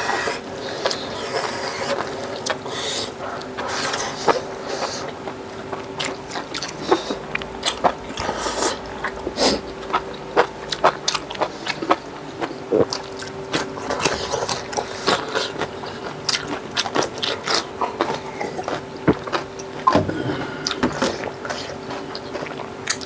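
Close-miked eating: chewing and crunching of food eaten by hand, with many short, sharp clicks and smacks scattered through. A steady faint hum runs underneath.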